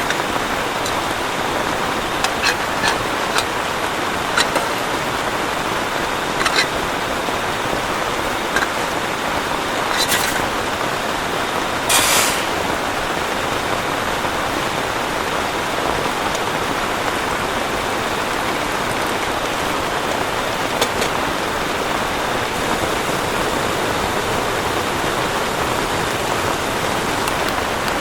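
Heavy rain falling steadily, a constant even hiss, with scattered sharp taps and two brief louder splashes about ten and twelve seconds in.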